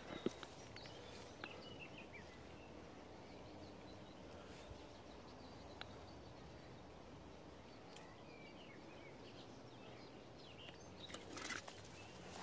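Quiet countryside ambience with faint, scattered bird chirps. A few soft clicks and some rustling near the end.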